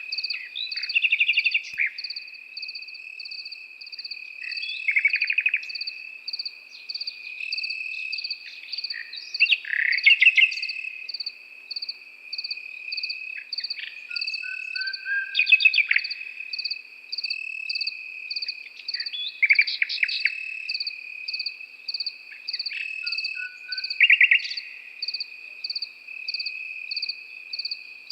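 A nightingale singing in short phrases of rapid repeated notes every few seconds, over crickets: one chirping about twice a second and a steady high trill beneath.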